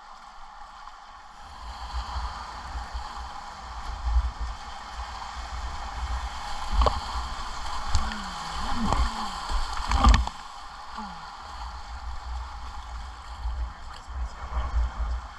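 Whitewater river rushing steadily around a kayak, with low buffeting rumble on the microphone and a few sharp knocks around the middle.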